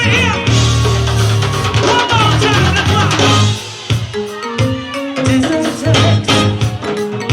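Live go-go band playing at full volume: drum kit and percussion keeping a steady beat over a bass line, with pitched melody lines above.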